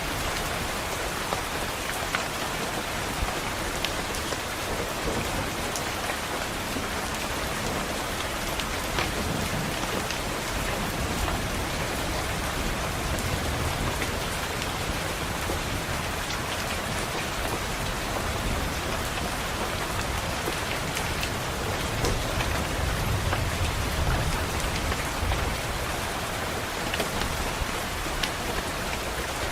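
Steady rain pattering on a window, with scattered sharp ticks. Low rumbles of thunder swell up twice, about a third of the way in and again near the end.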